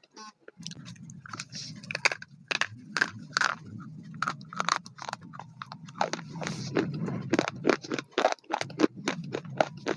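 Close-up chewing and biting of crunchy food: many crisp crunches in quick, irregular succession, over a low steady hum.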